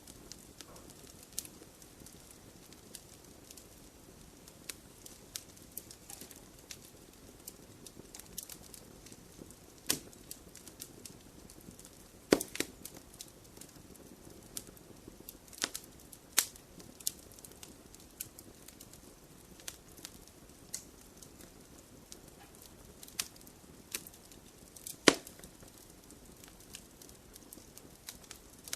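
Wood fire crackling in a fireplace: a soft, steady low rush of burning with irregular snaps and pops of the wood, a few louder pops standing out, the loudest about 25 seconds in.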